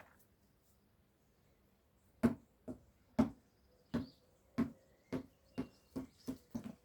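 A basketball bouncing on a hard floor, coming to rest. It gives about nine thumps that come closer and closer together and grow quieter.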